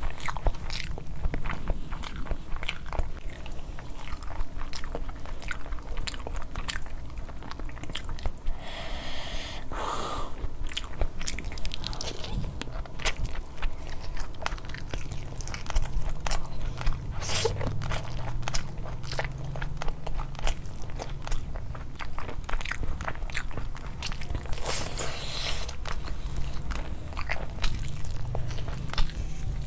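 Close-miked eating: biting into and chewing spiced chicken pulled apart by hand, with many small mouth clicks and smacks throughout.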